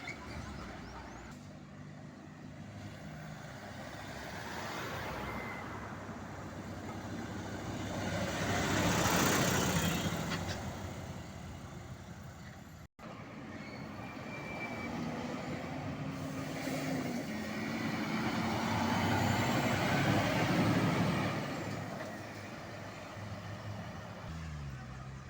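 Trucks passing on a road, their engines running, with two louder pass-bys, about nine and about twenty seconds in.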